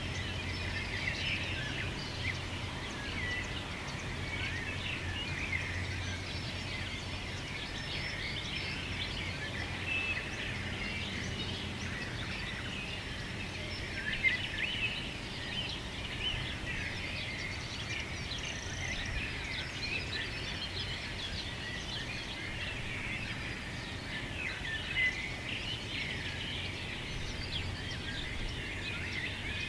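Many birds chirping at once in a dense, unbroken chorus of short calls, over a steady low hum.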